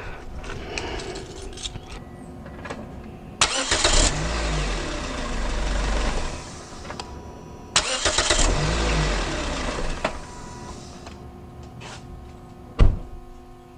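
2005 Toyota Matrix engine, freshly repaired starter cranking it over. It is started twice, each time with a sudden loud onset that runs for a few seconds, the two starts about four seconds apart. A single sharp thump comes near the end.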